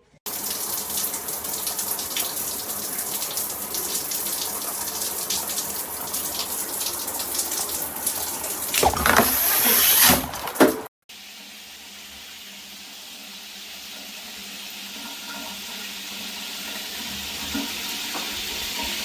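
Water spraying from a Jcrob shower head, a steady hiss. It swells louder about nine seconds in, breaks off suddenly just before eleven seconds, then resumes quieter and slowly grows louder.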